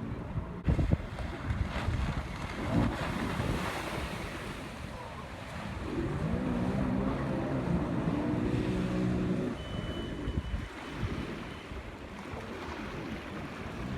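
Wind buffeting the microphone over water, with a jet ski's engine running. The engine's steady tone comes through most clearly from about six seconds in for three to four seconds.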